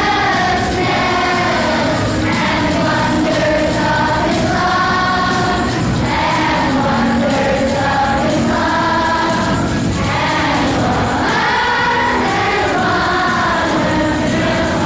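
Children's choir singing a song together, holding notes that change every second or so.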